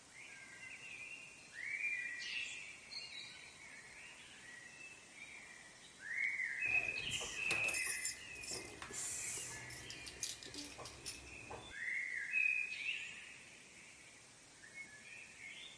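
Birds calling outdoors: short rising-and-falling chirps repeated every second or two. In the middle, about five seconds of louder crackling noise.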